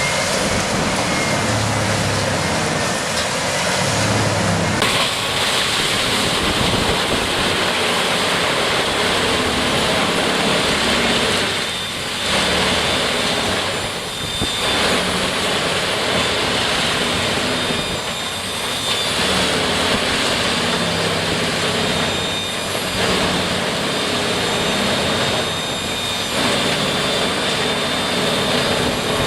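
Heavy powered machine running with a loud, steady rushing noise. It changes abruptly about five seconds in and dips briefly several times.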